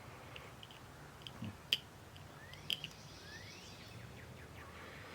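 A few light, sharp clicks of a small hook and rubber belt being worked onto a cassette deck's flywheel pulley, over faint room noise with a few faint high rising chirps.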